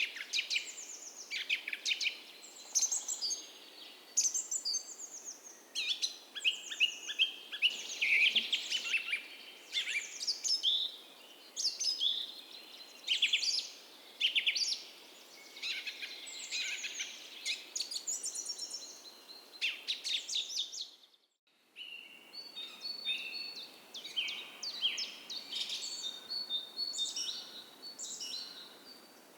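Dawn chorus of several songbirds singing in overlapping, rapid chirping phrases over a steady soft rush of a creek. A little over two-thirds of the way through, all sound drops out for about half a second, and afterwards thin, repeated high notes join the chorus.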